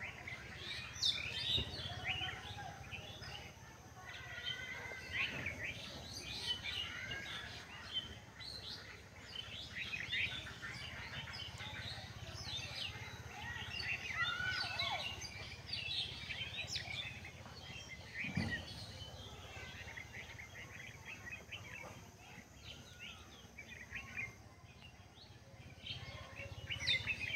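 Many birds chirping and calling in quick short notes over a low background hum, with one sharp knock about two-thirds of the way through.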